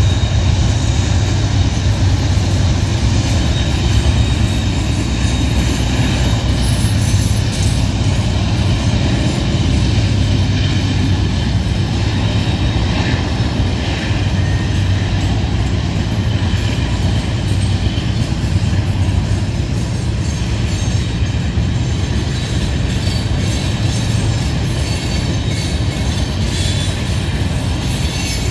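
Freight train climbing a curved grade: diesel locomotives working uphill and a long string of open-top freight cars rolling past. It makes a loud, steady, deep rumble with wheel clatter and a faint, steady high squeal of wheels on the curve.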